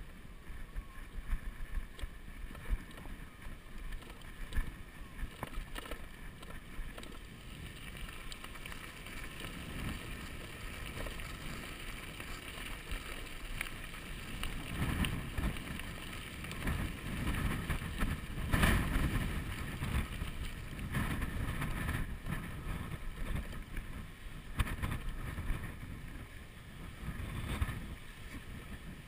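Wind buffeting a chest-mounted camera's microphone during a ride on an electric bicycle, a gusty low rumble that grows stronger about halfway through and eases near the end.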